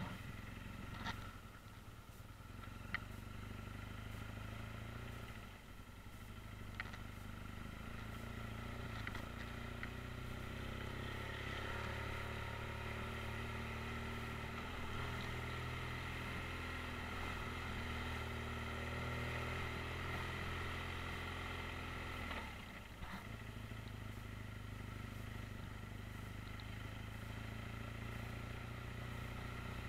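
BMW R1200 GS boxer-twin engine running at low, steady revs while the bike is ridden slowly over a rough dirt track. The engine note dips briefly about three-quarters of the way through, and a few sharp clicks come through in the first seconds.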